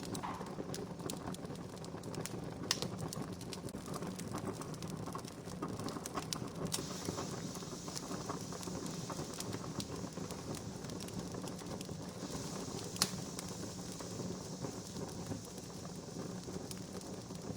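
Wood fire crackling: a steady hiss with scattered small pops and snaps, one sharper pop about three-quarters of the way through.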